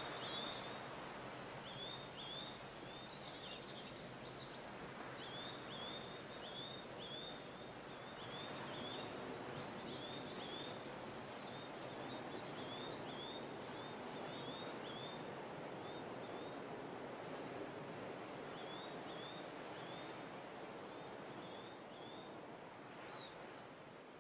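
Outdoor nature ambience: a steady rushing wash of noise, with runs of short, high bird chirps repeating several times a second, the runs coming and going throughout.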